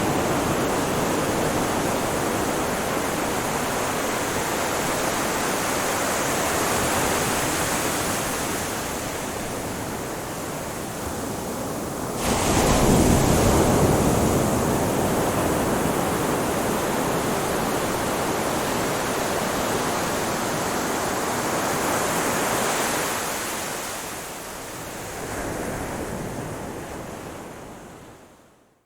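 Ocean waves washing onto a shore in a steady rush of surf that swells and ebbs, with one stronger wave breaking about twelve seconds in. The sound dies away just before the end.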